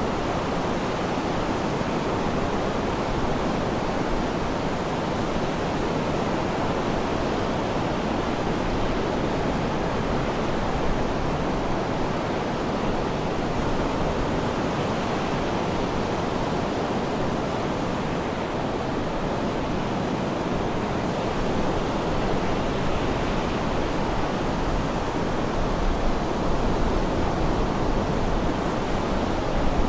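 Sea surf washing steadily, an even rushing noise with no distinct breaks between waves, swelling a little near the end.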